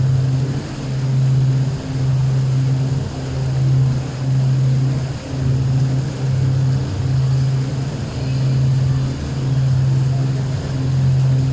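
Boat engine running steadily at cruising speed: a low hum with overtones above it that swells and dips about once a second.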